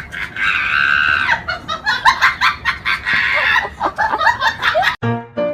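Animal calls: a quick run of short, sharp calls, with two longer, higher cries about half a second in and about three seconds in. Piano music starts near the end.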